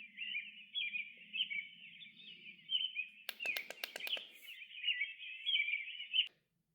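Small birds chirping and twittering continuously, with a quick run of about six sharp clicks a little past the middle; the birdsong cuts off suddenly near the end.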